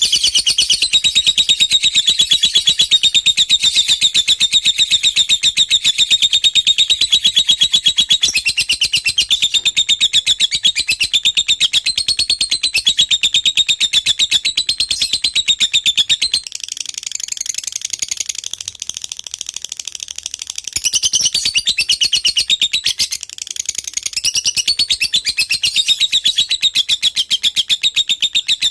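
Lovebird singing a long, unbroken run of rapid, high chattering trills. It drops quieter for a few seconds a little past the middle, then picks up again at full strength.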